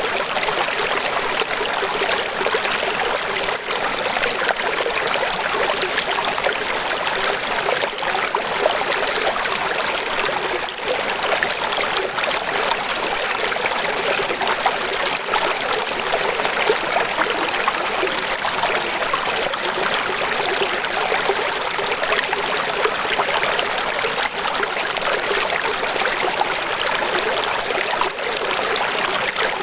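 Steady running water: a continuous, even rush with no pauses and little deep rumble.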